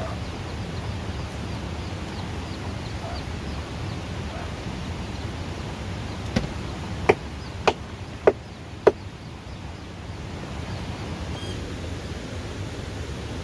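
A run of five sharp knocks, about two a second, midway through, over a steady outdoor noise background, with faint high chirps near the start.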